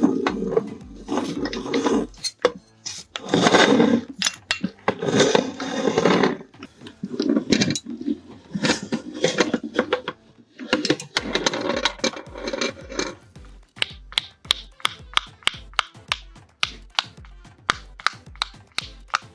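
Meat grinder chewing through a silicone pop-it toy in four stretches of grinding and rasping, followed by a steady run of sharp clicks, over background music with a low regular beat.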